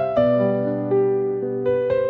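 Slow, soft solo piano music: gentle sustained notes and chords, a new note struck every half second or so.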